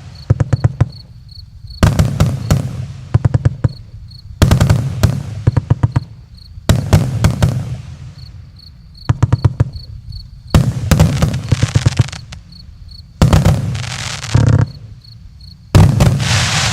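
Fireworks going off in volleys about every two and a half seconds. Each volley is a quick string of sharp bangs and crackles that fades out before the next.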